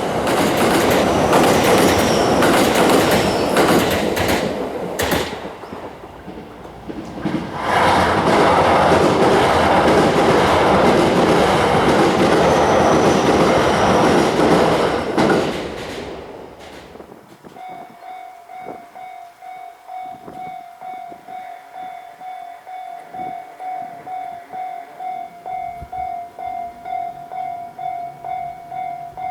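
Series 287 electric train passing close at speed over a level crossing: a loud rushing rumble with wheel clatter, dipping briefly about six seconds in before building again, then fading out about sixteen seconds in. After it has gone, the Japanese level-crossing warning bell rings on in rapid, evenly repeated dings.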